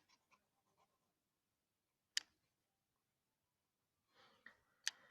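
Near silence, broken by a few faint ticks and two sharper clicks about two and a half seconds apart: a graphite pencil tapping on drawing paper.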